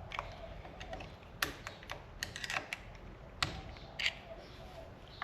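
Light, irregular clicks and taps of small metal parts and hand tools being handled: the circlip, circlip pliers and brake master cylinder internals. The clicks come unevenly, a few sharper ones about a second and a half, three and a half and four seconds in.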